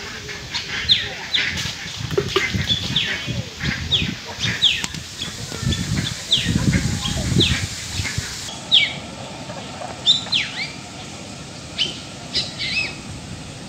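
Birds chirping: a run of short, sharp calls that slide downward, one or two a second, over a low murmur that drops away about eight seconds in.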